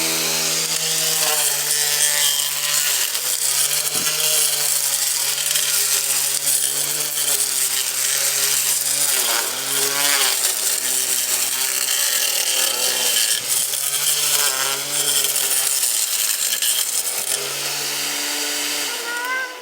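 Walita blender motor driving an improvised blade on a homemade grass cutter, running on its lowest speed with a steady whine over a hiss; its pitch dips and recovers several times, then it cuts off just before the end.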